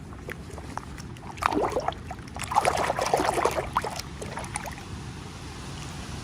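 Crinkling and rustling of packaging being handled as a miniature toy is unboxed, in two bursts of dense crackles about a second in and from about two and a half to four seconds in, over a steady low hum.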